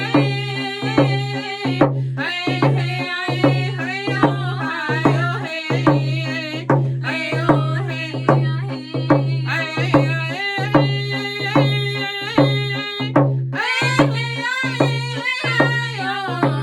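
Round dance song: singers' voices over a hand drum struck in a steady beat, the drum's low ring sounding under each stroke. The singing comes in long phrases with brief breaks for breath.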